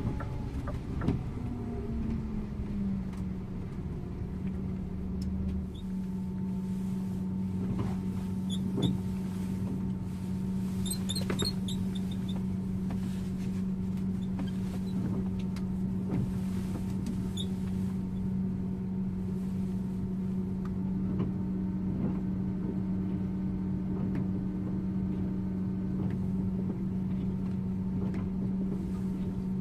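Scania InterLink bus running on the road, heard from the driver's seat: the engine and driveline drone falls in pitch over the first few seconds, then holds a steady hum, with a few light clicks and rattles.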